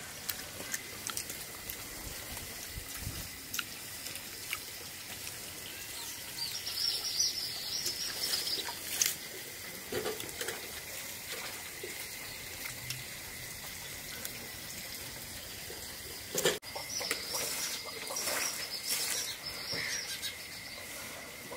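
Small birds twittering in two bursts, one about a third of the way in and another near the end, over scattered small clicks.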